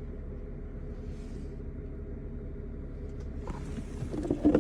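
A steady low rumble with a faint continuous hum. Some rustling and handling noise comes in near the end.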